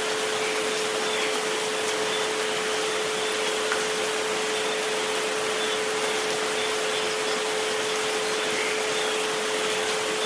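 Steady recorded rain hiss with a continuous pure tone near 432 Hz held underneath, and a fainter second tone near 528 Hz just above it.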